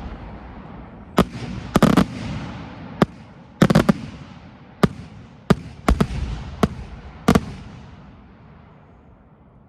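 A 5-inch multi-break aerial firework shell bursting overhead: about a dozen sharp bangs over some six seconds, some in quick clusters, each followed by a rolling echo. The echoes die away near the end.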